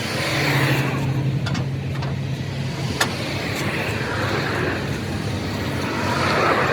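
Motor vehicles running and passing on the road: a steady engine hum with rushing swells near the start and again near the end, and one sharp click about three seconds in.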